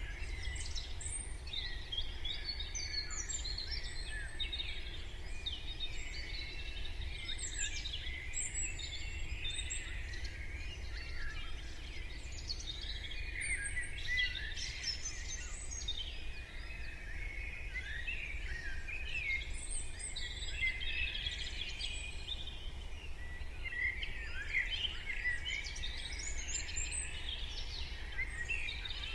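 Morning chorus of many small songbirds singing at once, overlapping chirps and trills throughout, over a steady low rumble of background noise.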